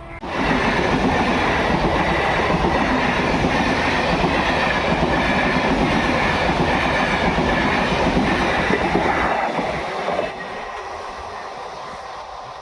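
A train passing close by: loud wheel-on-rail clatter that starts suddenly and drops away about ten seconds in, leaving a quieter rumble.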